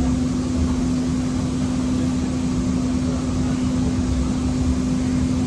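Siemens S200 (LRV4) light rail vehicle running, with a steady hum held at one pitch over a low rumble.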